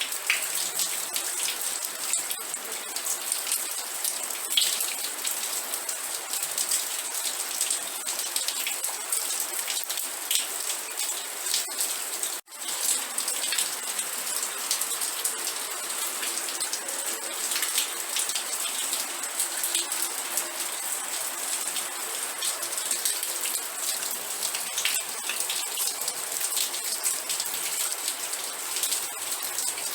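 Steady rain, a dense hiss of many close drop hits on a surface. It cuts out for an instant about twelve seconds in.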